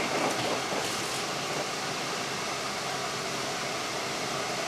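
Steady rolling noise of a moving Dutch passenger train, heard from inside the coach.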